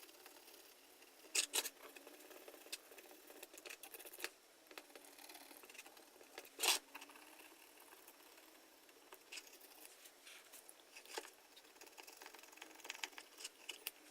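Small knife scraping softened paint off a plastic power-tool housing: irregular short scratching strokes with sharp clicks, the loudest twice, about one and a half seconds in and near the middle.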